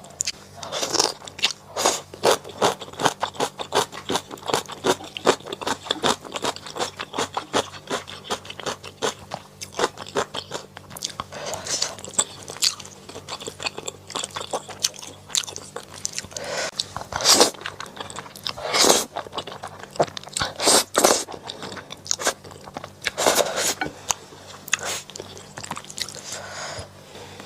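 Close-miked eating sounds: a mouth chewing with rapid wet clicks and crunches, and a few louder, longer mouth sounds about two-thirds of the way through.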